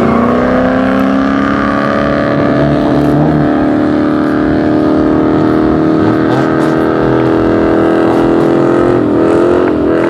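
Car engine revving up and held at high rpm, typical of a burnout. The pitch climbs over the first couple of seconds, then holds steady and wavers near the end.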